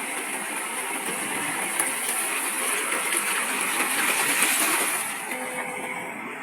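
Heavy earthmoving machinery running, a steady rough mechanical noise that swells about four seconds in and eases near the end.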